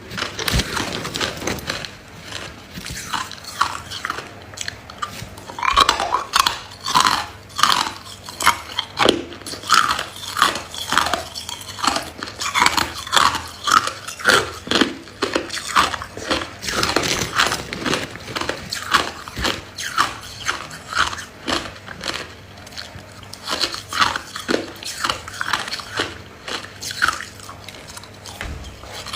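Ice being bitten and chewed: a long run of crisp crunches, several a second, sparser for the first few seconds and coming thick and fast after that.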